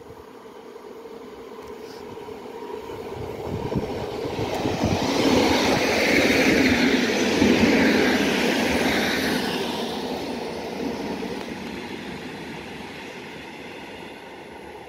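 Electric multiple-unit passenger train passing on the track, its wheels and running gear growing louder as it approaches. It is loudest about five to nine seconds in, then fades as the train pulls away.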